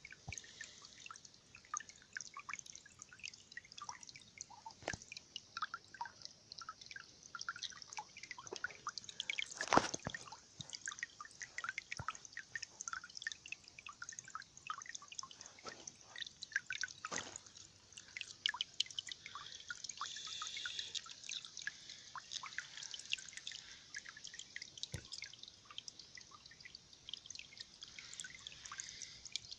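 Water trickling and dripping in many quick, irregular plops over a soft hiss, with one louder splash about ten seconds in.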